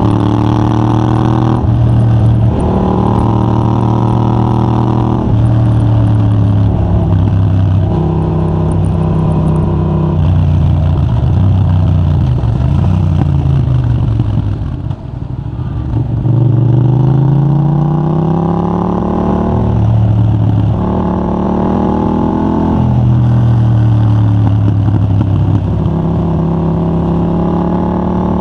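Yamaha MT-07's 689 cc parallel-twin engine through a de-catted Mivv GP Pro titanium exhaust, revving hard under acceleration with its pitch climbing and stepping back down at each upshift. About halfway it drops to low revs as the throttle comes off, then pulls up again through several more upshifts.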